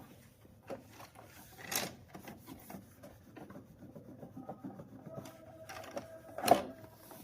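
Small clicks and taps of sewing machine parts being handled and fitted, with one sharper knock near the end and a fainter one about two seconds in.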